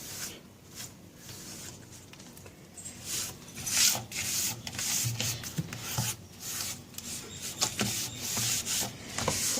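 A cloth rubbing over the top of a refrigerator, wiping off dust in a series of quick strokes that grow louder after about three seconds.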